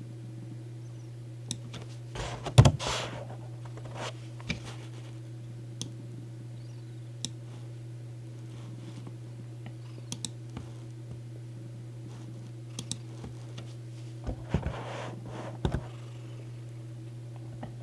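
A cat on a lap purring steadily, with scattered light clicks like keyboard typing and two brief louder rustles, about 2.5 seconds in and again about 15 seconds in.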